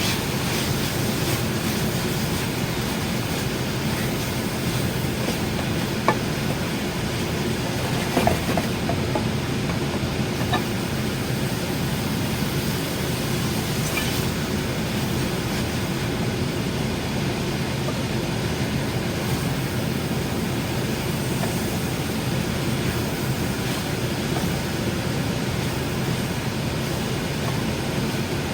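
Steady whooshing noise of a fan running over bacon frying in a pan, with a few short pops about six and eight seconds in.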